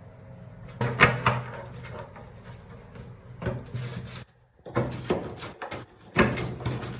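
Four short bursts of knocking and clattering, like hard objects being handled and set down, over a steady low hum.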